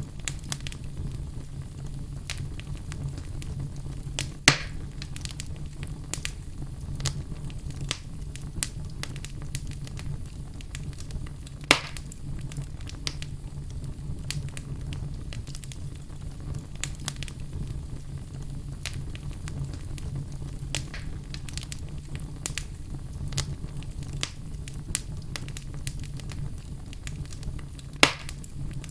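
Wood fire burning in a fireplace, crackling steadily over a low rumble, with three sharper pops from the burning logs.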